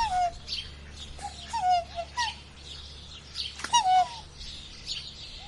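Birds calling: a series of short calls that drop in pitch, bunched in a few groups, with higher chirps among them.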